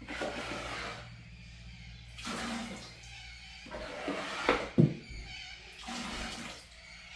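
Water sloshing and swishing in repeated strokes about every two seconds, with two sharp knocks near the middle. A low steady hum runs under the first half and then stops.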